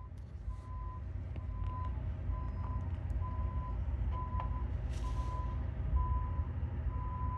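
Vehicle reversing alarm beeping steadily about once a second, one high beep at a time, over a steady low rumble, with a short hiss about five seconds in.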